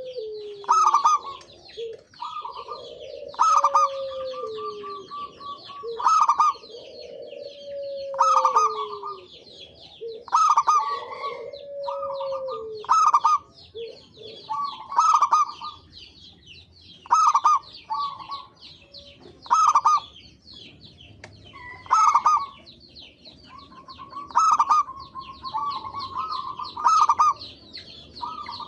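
Zebra doves (perkutut) cooing: short repeated call phrases about every two seconds, some sliding down in pitch during the first half. A steady chatter of high chirps from small birds runs underneath.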